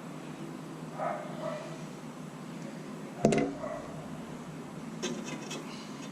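Handling noises from hand-work on the buggy's ignition: a few small knocks, one sharp knock about three seconds in, and a short run of light clicks near the end, over a steady low hum.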